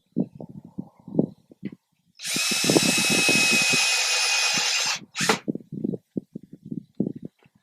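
Power drill running steadily for about three seconds, then a short second burst. Knocks and clunks of handling the work come before and after.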